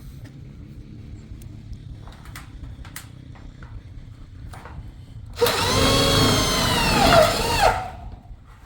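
A small motor, like a power tool's, runs briefly for about two seconds, its pitch rising and falling as it speeds up and slows.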